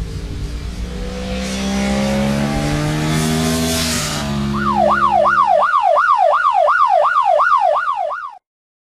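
A vehicle engine rising in pitch with a hiss, then a police-style yelp siren sweeping up and down about two and a half times a second, which cuts off suddenly near the end.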